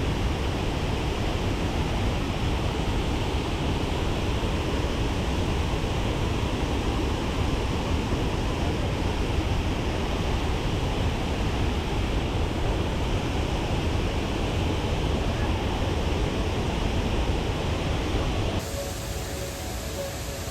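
Waterfall: a steady rush of falling water. It cuts off abruptly near the end.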